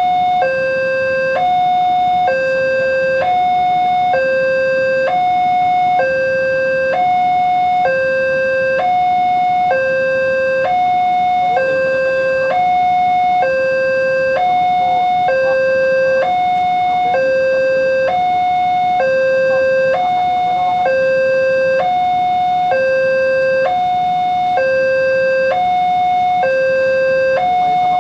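Indonesian railway level-crossing alarm sounding a steady two-tone warning, switching between a higher and a lower tone about once a second: the crossing barriers are down for an approaching train.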